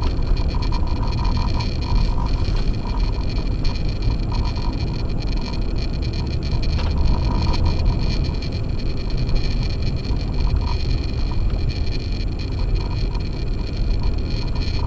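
Acura MDX driving on a snow-covered road on Sumitomo Ice Edge winter tires: a steady low rumble of tyres and engine, with a few thin steady high tones over it.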